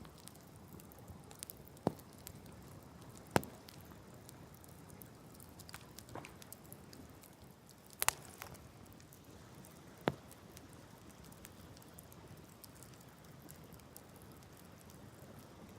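Open wood fire crackling: sparse sharp pops and snaps of burning wood, four of them standing out and the loudest about three seconds in, over a faint steady hiss.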